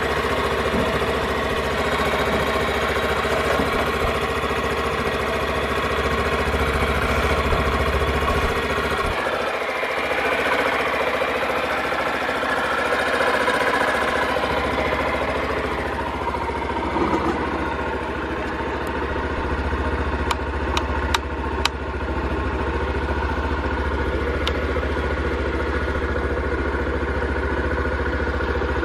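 Honda Super Cub 50 FI's 49 cc four-stroke single-cylinder engine running steadily with no abnormal noise. Its note shifts about a third of the way in and again past the middle, and a few sharp clicks come just after that.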